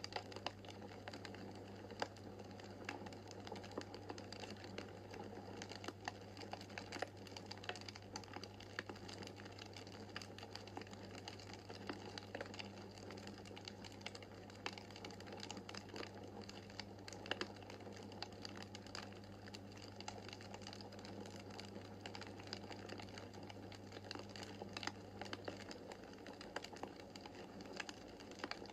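Wood burning in a fireplace: logs crackling steadily with irregular sharp pops, over a steady low hum.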